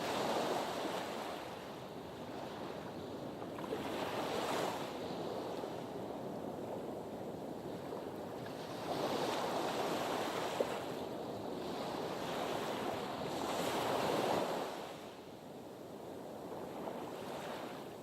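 Sea waves washing in against a harbour breakwater. The surge swells and falls back about every four to five seconds over a steady wash of water.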